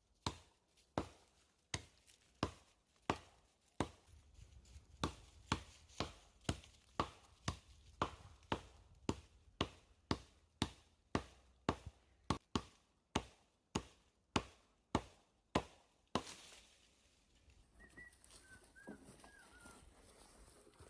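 Axe chopping wood: a steady run of sharp strikes, about three every two seconds, that stops about sixteen seconds in.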